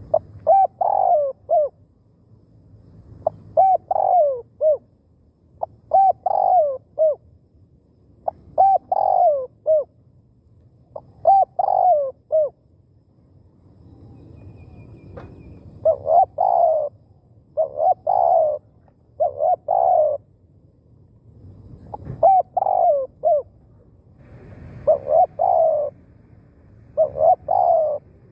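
Spotted dove cooing, repeating its short phrase of a few notes every two to three seconds.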